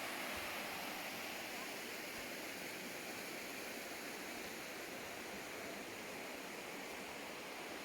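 Steady rushing of a mountain river's water through a gorge, an even hiss without breaks.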